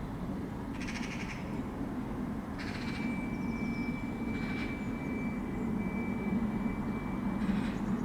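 A crow cawing four times, short harsh calls a second or two apart, over a steady low background rumble. A thin steady high tone sounds through the middle.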